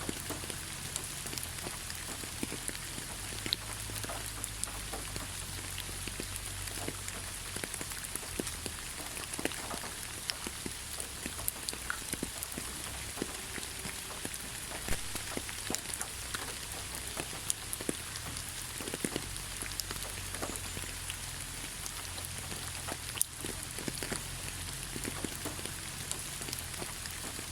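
Steady rain falling, a constant hiss with many separate drops tapping throughout, over a low steady rumble.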